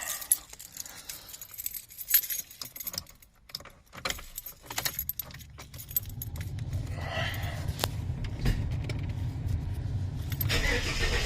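Car keys jangling and clicking, with scattered rattles, as the key is worked toward the ignition. From about halfway in, a low steady hum slowly grows louder.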